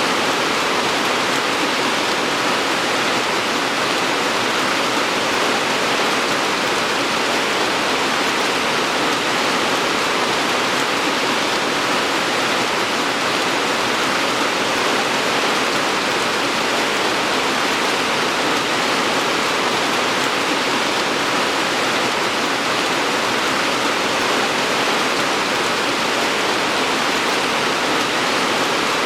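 Steady rain falling, an even hiss without distinct drops or changes.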